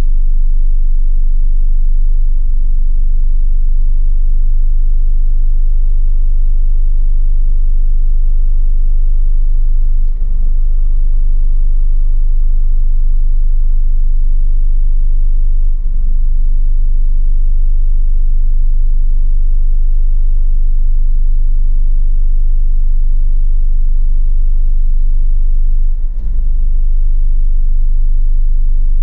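Hyundai Tiburon engine idling roughly in gear, a steady low rumble that dips briefly a few times. The rough idle comes from a failing spark plug cable.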